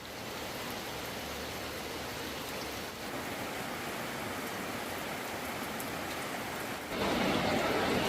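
Steady hiss of heavy rain, which jumps suddenly louder about seven seconds in.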